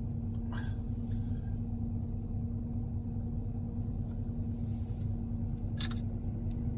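Steady low rumble of a vehicle's engine and road noise heard from inside the cab while driving, with a constant hum, and a couple of brief clicks, one about half a second in and one near the end.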